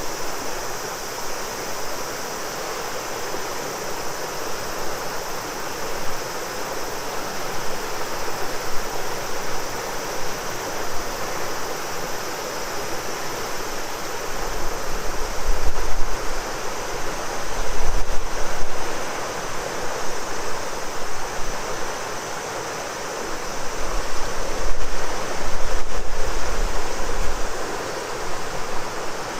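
Shimanto River flowing in a steady rush, with a continuous drone of cicadas high above it. In the second half, a few low gusts of wind buffet the microphone.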